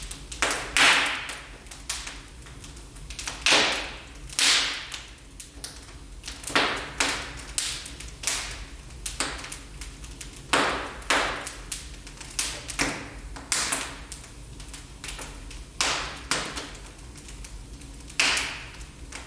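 Wood fire crackling in a fireplace: irregular pops and snaps, with a few louder sharp cracks scattered through.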